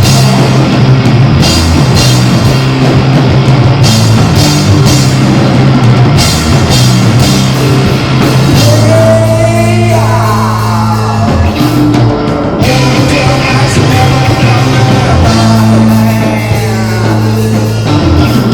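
Live rock band playing loudly: a drum kit, a heavy bass holding long low notes, and a voice over them.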